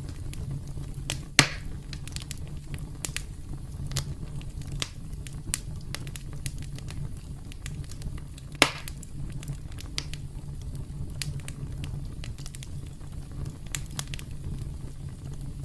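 Campfire burning with a steady low rumble and irregular crackles, and two loud pops, one about a second in and one past the middle.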